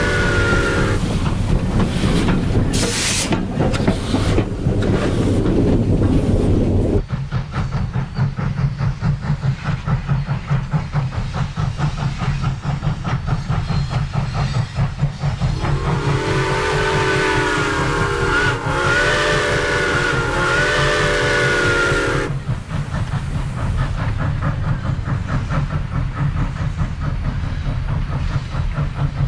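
Southern Railway No. 4501, a Mikado steam locomotive, working past with a fast, steady beat, blowing its steam whistle: a blast ending about a second in, then three blasts in a row about halfway through. A loud rushing noise cuts off abruptly about seven seconds in.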